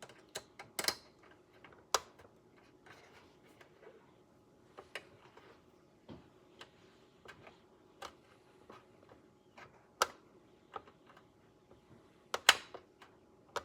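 Irregular small clicks and taps of parts being handled and fitted during engine assembly, a few sharper knocks among them, over a faint steady hum.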